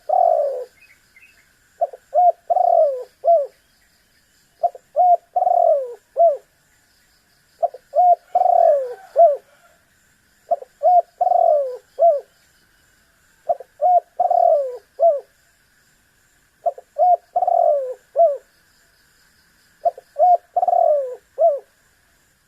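Spotted dove (tekukur) calling, repeating its cooing phrase of three or four notes with a longer middle note, about once every three seconds.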